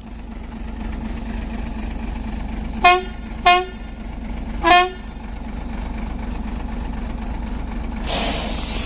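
Truck engine running steadily, with three short horn toots between about three and five seconds in. A short burst of hiss comes near the end.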